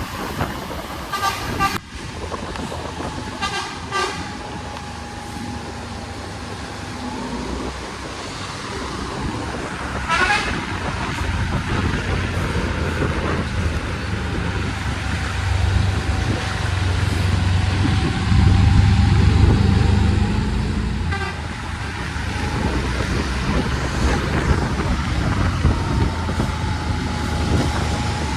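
Bus engine running steadily, louder and heavier for a few seconds past the middle, with short horn toots four times.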